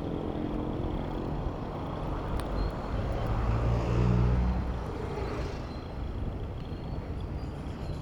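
City road traffic heard from a bicycle: a steady wash of road noise, with a motor vehicle's engine swelling as it passes close about three to five seconds in, then fading.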